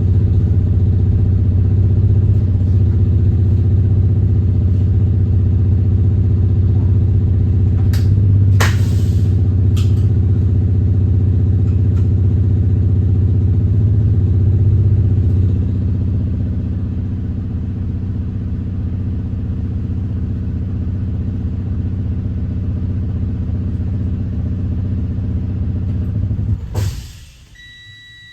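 Diesel engine of a Thomas Saf-T-Liner C2 school bus running steadily, with a short air hiss about eight seconds in. It eases slightly about halfway through, then cuts off suddenly near the end, leaving a faint steady tone.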